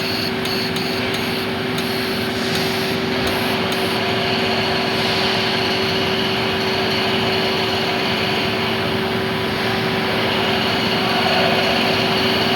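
MIG welding arc crackling steadily, with a steady hum under it, and a few sharp clicks in the first few seconds.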